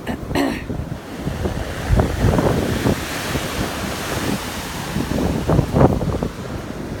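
Ocean surf breaking and washing up the sand, with a wash swelling a couple of seconds in, and wind buffeting the microphone.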